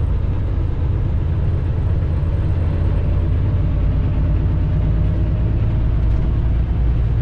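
Semi-truck heard from inside its cab at highway speed: a steady low rumble of diesel engine and road noise.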